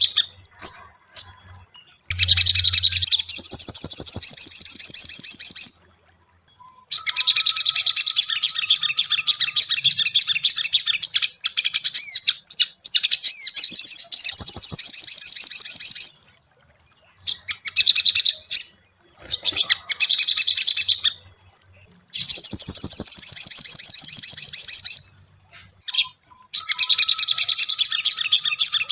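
Little spiderhunter (sogon, sogok ontong) singing in long runs of rapid, high, repeated chirps. The runs last several seconds each and are broken by short pauses. This is the chattering song used as a lure to set caged sogon singing.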